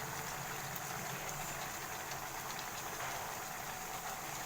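Chicken gravy simmering in a pan as it thickens, a steady faint bubbling and sizzle.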